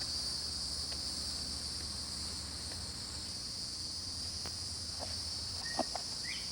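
Steady chorus of crickets trilling in the background, with a couple of brief faint squeaks near the end.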